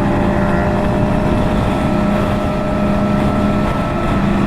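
Motorcycle engine running at a steady cruise with a constant, unchanging hum, over road and wind rush.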